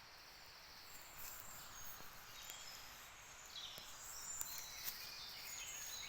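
Woodland birdsong: several songbirds singing short, high-pitched phrases and chirps that overlap, with a couple of faint clicks about four and a half and five seconds in.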